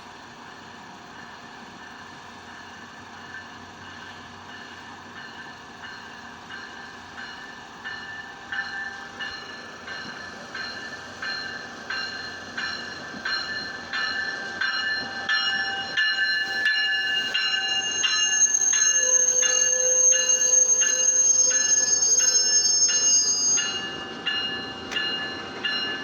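Amtrak California passenger train arriving, growing steadily louder. Its wheels click rhythmically over the rail joints, with a high-pitched squeal that swells to its loudest for about five seconds near the end as it brakes into the station.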